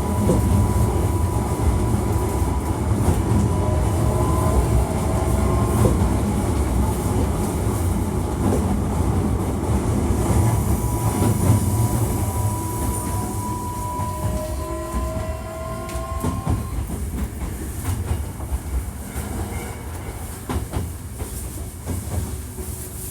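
Hankyu 1300 series electric train running between stations, heard on board: a low rumble of wheels on rail with scattered joint clicks, plus a thin steady whine and a few short rising tones. It grows quieter in the second half as the train eases off for the next stop. This trainset is the one the recordist flags as having an abnormal running noise.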